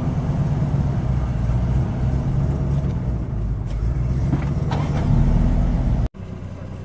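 Jaguar F-Type's engine running steadily at idle, heard from the front of the car, a little louder near the end and then cut off abruptly about six seconds in to a quieter engine sound.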